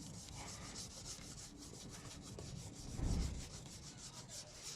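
Microfiber cloth rubbing polish onto a plastic car headlight lens in quick, rhythmic strokes, with a low thump about three seconds in.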